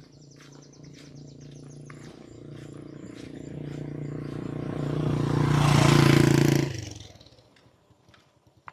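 A vehicle engine approaches and passes, growing steadily louder to a peak about six seconds in, then dropping away quickly. A fast high ticking trill from a bird or insect is heard in the first two seconds.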